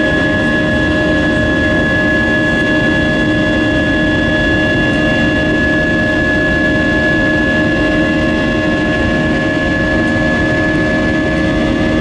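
Steady cabin noise inside an Airbus A320-232: an even roar of the IAE V2500 turbofan engines and airflow, with several steady whining tones held unchanged throughout.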